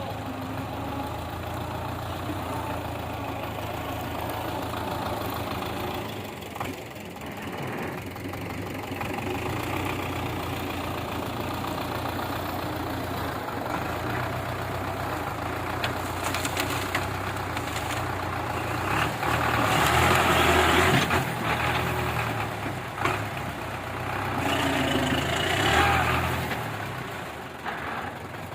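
Belarus 510 tractor's diesel engine running steadily, pulling a loaded sugarcane trolley. It grows louder twice under load: once about two-thirds of the way through and again near the end.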